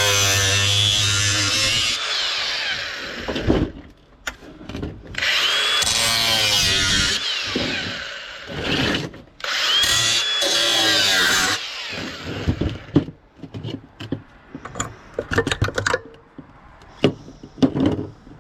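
A handheld power tool running in three bursts of a couple of seconds each, its pitch rising as it spins up, followed by a series of short knocks and clanks as scrap is handled.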